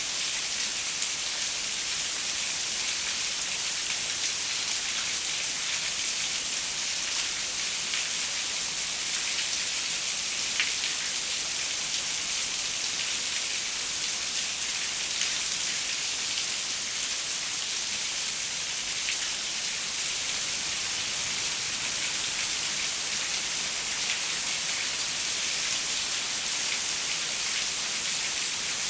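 Steady rain with individual drops ticking against a window, an even high hiss that barely varies.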